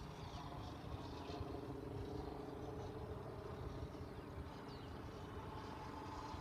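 Radio-controlled model Sea Fury in flight, its engine sound droning steadily, with wind rumbling on the microphone.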